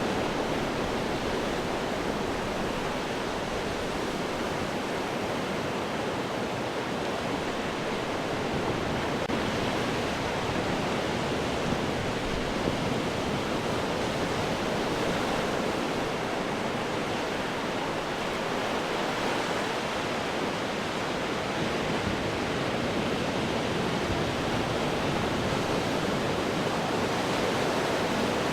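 Ocean surf breaking on rocks: a steady, unbroken rush of water noise with gentle swells and no distinct single crashes.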